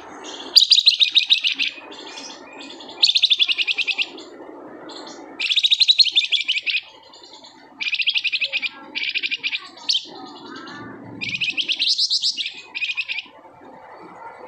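Flamboyan songbird singing in rapid, tightly packed trilling bursts ('ngebren'), in the agitated full-voiced state keepers call gacor. There are about six high-pitched bursts, each a second or so long, separated by short pauses.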